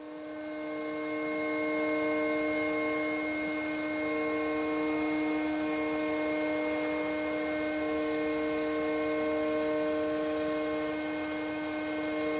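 Electric air pump running with a steady hum, inflating a high-pressure inflatable boat air floor; it fades in over about the first second.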